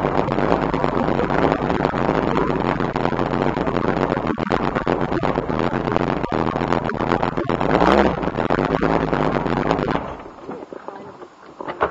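Shelby Cobra's V8 engine running as the car creeps forward at low speed, then switched off about ten seconds in, leaving only a faint background.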